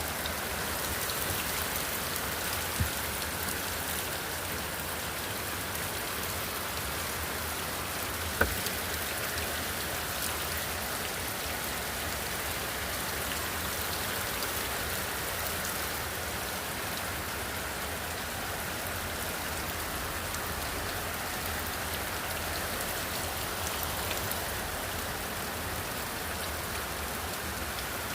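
Heavy rain falling steadily, with two sharper taps about three and eight seconds in.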